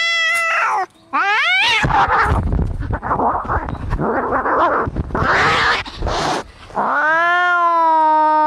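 Cats fighting: a drawn-out yowl that breaks off, a rising yowl, then about five seconds of harsh, noisy screeching and hissing, and near the end another long, steady yowl.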